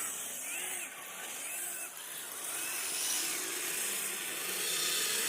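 Electric motor drivetrain of a tracked RC snow vehicle whining in repeated rising-and-falling swells as the throttle is pulsed, over a steady hiss of the tracks working through snow.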